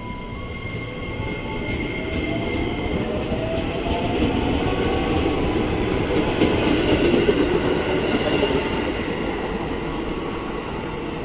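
Electric commuter trains running beside a station platform: a faint rising motor whine as a train pulls away, under running and wheel noise that swells to its loudest a little past halfway as a train goes by close to the platform.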